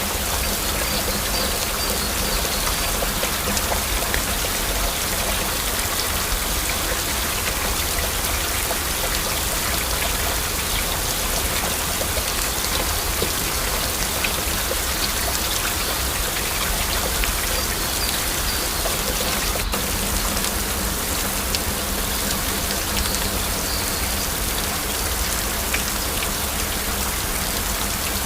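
Heavy rain falling steadily: a dense, even hiss sprinkled with many small drop ticks.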